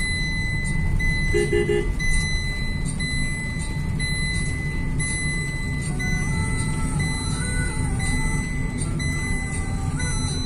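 Steady road and engine noise of a car on the move, with a short run of about three beeps about a second and a half in.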